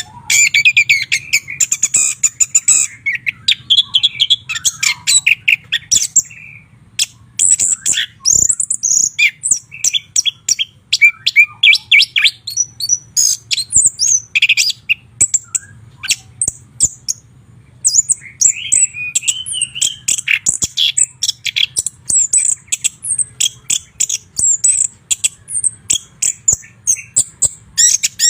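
White-rumped shama singing: fast, varied runs of high whistles and chattering notes, pausing briefly about seven seconds in and again around sixteen seconds, over a faint low hum.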